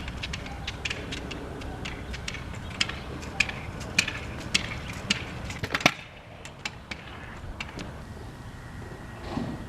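Kids' kick scooters rolling over pavement: a low rolling rumble with many sharp clicks and knocks, the rumble dropping away about six seconds in.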